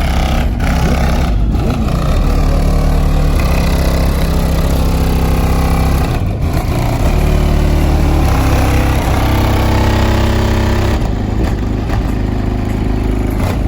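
A car engine running loud and being revved, held at several steady speeds in turn, with a brief drop about six seconds in.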